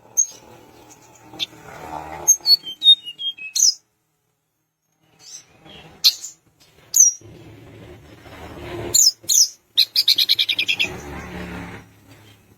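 Tledekan gunung calling: scattered short, sharp chirps and high whistled notes, with a quick rattling run of repeated notes about ten seconds in.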